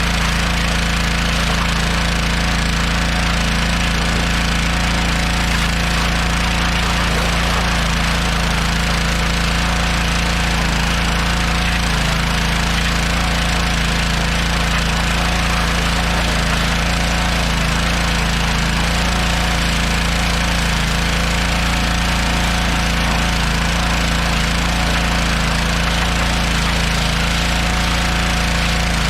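Pressure washer running steadily, its motor humming under the hiss of the water jet spraying down a truck engine.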